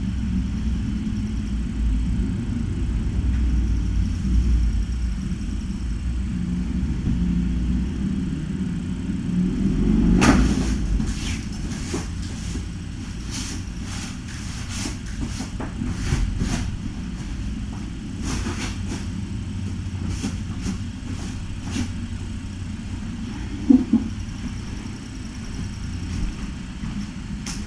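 Sink being cleaned by hand: a steady low rumble, with a run of short scrapes and knocks from scrubbing through the middle, the loudest about a third of the way in.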